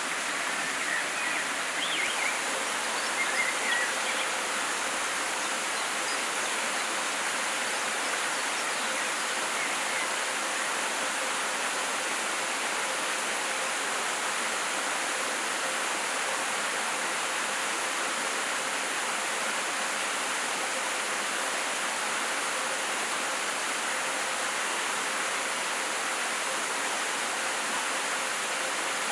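Steady rushing of a flowing river, an even hiss with no let-up. A few short high chirps sound over it in the first few seconds.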